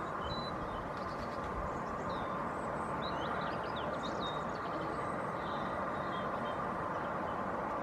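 Steady traffic hum with faint, scattered chirps of small birds over it. A brief cluster of quick chirps comes about three to four seconds in.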